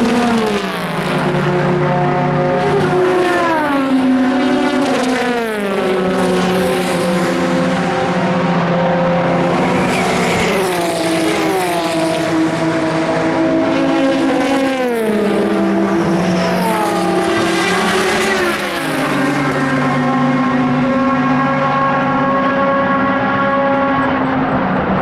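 Endurance race cars passing at speed one after another, several engine notes overlapping, each note dropping in pitch as the car goes by.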